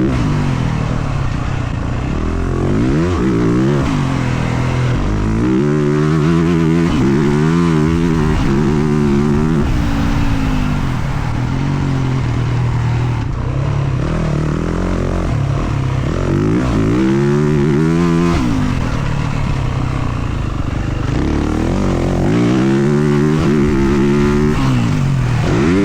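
Motocross dirt bike engine revving hard and backing off again and again, its pitch climbing and dropping every couple of seconds as the bike is ridden around a track.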